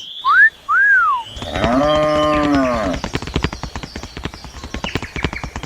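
Two short squeaky calls that rise and fall, then a long low call like a cow's moo lasting about a second and a half. From about three seconds in comes a fast, even run of clicks like trotting hooves.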